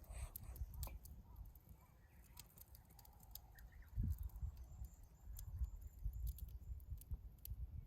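Wood campfire crackling, with scattered sharp pops over an uneven low rumble.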